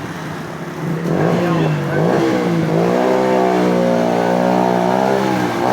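Motorcycle engine accelerating hard. Its pitch climbs, dips briefly about two seconds in as a gear is shifted, then holds a steady high note and stops near the end.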